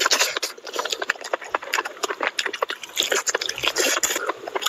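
Close-up wet chewing and lip-smacking on curry-coated chicken: a dense, irregular run of sticky clicks and crackles.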